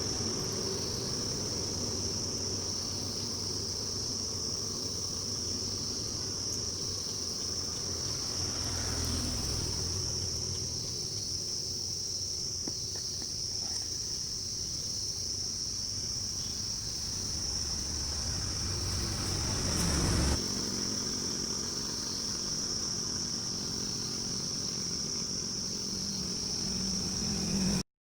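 Steady high-pitched buzzing of insects, over a low background rumble; a brief louder noise swells about twenty seconds in.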